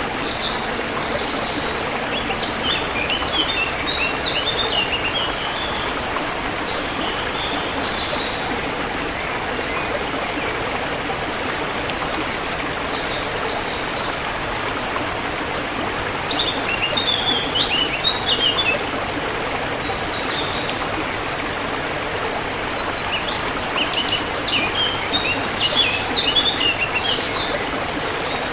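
A stream running steadily, with birds singing in several short bursts of quick high chirps and trills over it.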